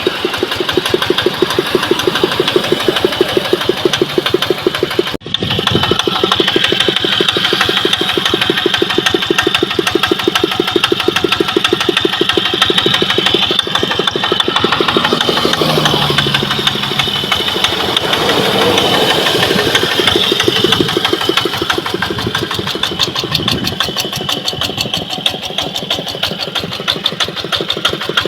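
Kubota ET110 single-cylinder diesel walking-tractor engine running steadily with a fast, even knock of firing strokes. The sound drops out briefly about five seconds in, then carries on.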